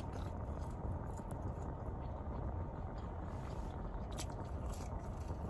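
Close-miked chewing of Chick-fil-A waffle fries: scattered soft mouth clicks and smacks over a steady low rumble.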